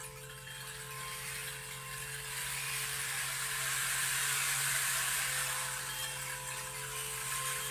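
Steady rush of a flowing stream, with several held ringing tones of a singing bowl sounding over it.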